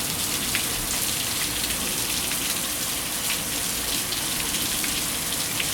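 Heavy thunderstorm rain pouring down steadily, with small ticks of drops hitting surfaces.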